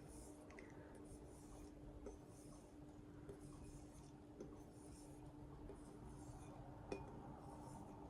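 Axe edge being stropped on paper loaded with 2 micron diamond emulsion: faint, soft swishes about once a second over a steady low hum.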